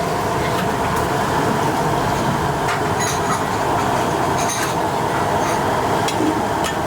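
Busy commercial kitchen: a loud, steady mechanical roar with light clinks of utensils scattered through it.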